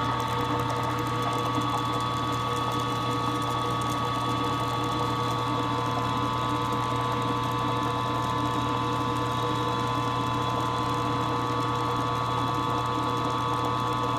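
Milling machine spindle running steadily, drilling a bolt hole in a small engine's cylinder head, with a constant hum and a few steady whining tones.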